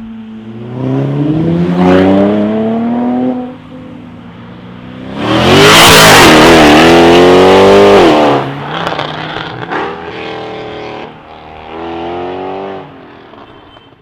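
V12 supercar engine accelerating hard, its pitch climbing and then dropping at gear changes. The loudest part is a flat-out pass about five to eight seconds in, followed by shorter, fainter bursts of throttle.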